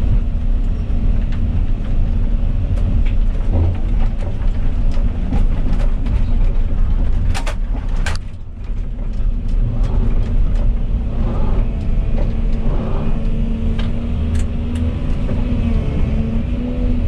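Volvo EC220E excavator's diesel engine running steadily under load, with a changing hydraulic whine in the second half. Two sharp knocks come about seven and eight seconds in.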